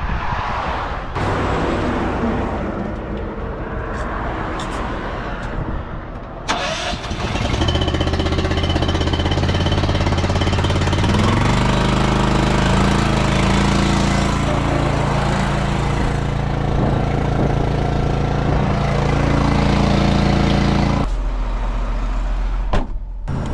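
A small engine, the trailer's hydraulic pony motor, starts about a third of the way in. It runs steadily, steps up in speed a few seconds later, then cuts off suddenly near the end.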